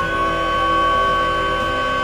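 A steady siren-like tone held at a few fixed pitches after a short upward glide.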